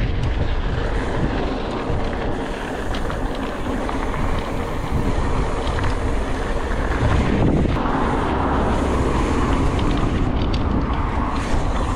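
Wind rushing steadily over an action camera's microphone while riding a bicycle on the road.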